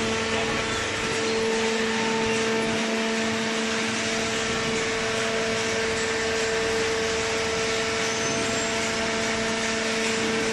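Hydraulic baler running: a steady machine hum holding two constant tones, with a rushing noise over it.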